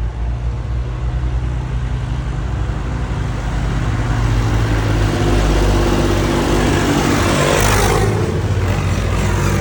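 Tractor engine running steadily and passing close by, growing louder to a peak about eight seconds in and then fading.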